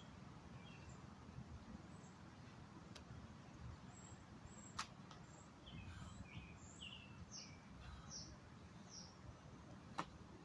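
Faint birdsong: small birds chirping in short repeated calls over a quiet outdoor background. Two sharp clicks stand out, one about five seconds in and one near the end.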